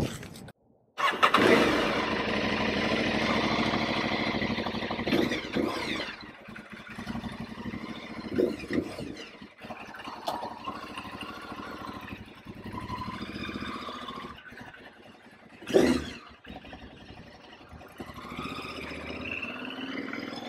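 Aprilia Tuareg 660's parallel-twin engine starting about a second in. It runs loud for about five seconds, then settles to a quieter idle. A sharp knock comes about three-quarters of the way through.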